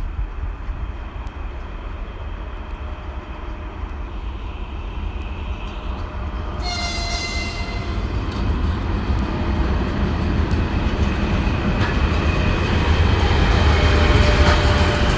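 A 3ES5K Ermak electric locomotive with a short freight train approaching, its rumble growing steadily louder. Its horn sounds a short signal about halfway through.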